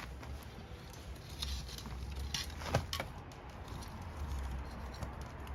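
Wood fire crackling: scattered sharp pops and ticks, with one louder pop near the middle, over a steady low rumble.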